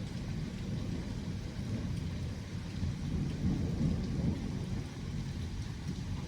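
Rolling thunder rumbling low, swelling to its loudest a little past the middle, over a steady hiss of rain.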